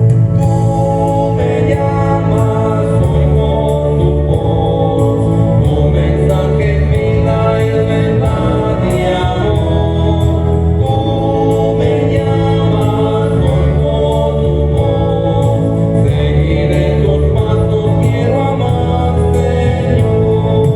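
A church hymn sung live by a choir with keyboard accompaniment, in sustained chords over a steady bass line.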